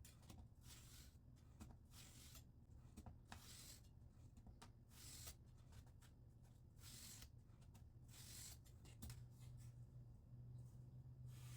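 Faint scraping strokes of a wet 400-grit vitrified diamond stone drawn across a scissors blade held in a guided sharpener, one short hissing stroke every second or two, over a low steady hum.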